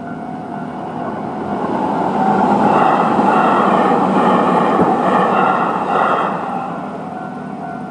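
Tobu Nikko Line train passing over a railway level crossing. Its running noise swells about two seconds in and dies away after about six seconds. The crossing's electronic warning bell rings steadily under it.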